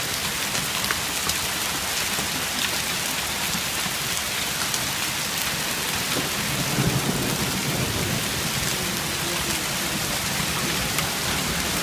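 Hail of up to three-quarters of an inch and rain coming down in a steady hiss, with scattered sharp ticks of hailstones striking. A low rumble of thunder comes about halfway through.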